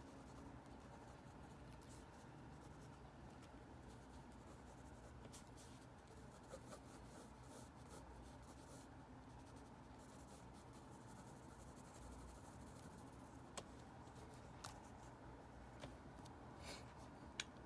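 Faint scratching of a drawing tool on paper as lines are sketched, with a few light clicks or taps near the end, over a low steady hum.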